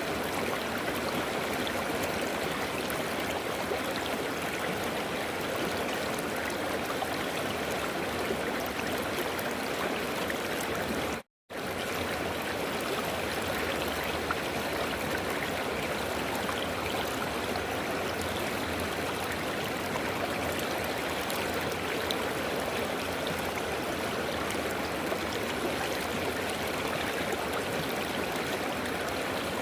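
River water flowing, a steady even rush. It cuts out to silence for an instant about eleven seconds in, then carries on unchanged.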